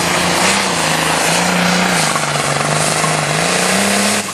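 Light super stock pulling tractor engine running flat out under load down the track, its pitch dipping and rising as it pulls the sled. The level drops suddenly near the end.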